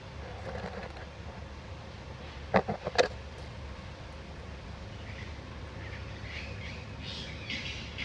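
Outdoor garden ambience: faint birds chirping over a steady low rumble. A quick run of about four sharp clicks comes about two and a half seconds in, the loudest sound here.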